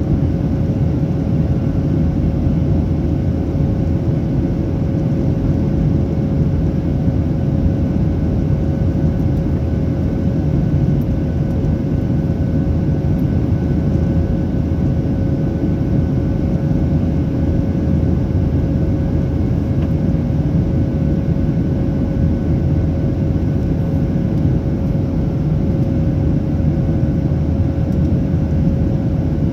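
Steady cabin noise of a Boeing 737-800's CFM56 turbofan engines heard from the rear economy cabin: a dense, even rumble with a steady hum and a fainter high tone running through it.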